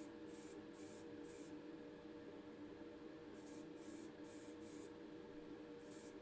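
Aerosol can of white primer spraying in short, evenly spaced bursts: a run of about five quick hisses, a pause of about two seconds, then another run, over a faint steady hum.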